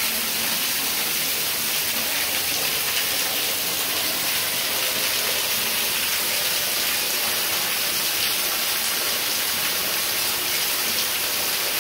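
Red Cedar Falls' waterfall splashing: a steady, even rush of falling water.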